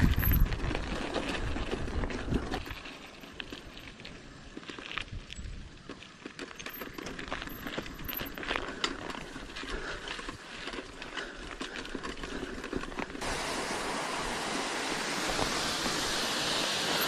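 Mountain bike riding down a dirt trail: tyres crunching and the bike rattling with many scattered clicks, and a low wind rumble in the first couple of seconds. About thirteen seconds in, the sound changes abruptly to a steady hiss.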